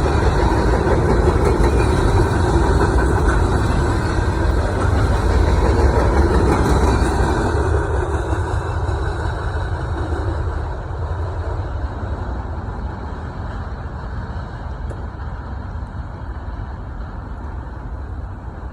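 Motor vehicle engine running, a steady low rumble that grows gradually fainter over the second half.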